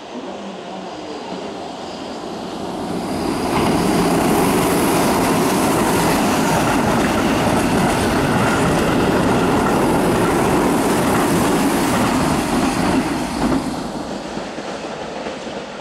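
Keihan electric train running past on the station tracks: wheel and running noise builds up, stays loud for about nine seconds with rail clatter, then fades away.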